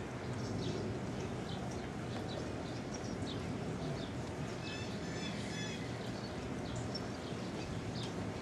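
Small birds chirping with short, high notes, including a quick run of repeated notes about five seconds in, over steady outdoor background noise with a low hum.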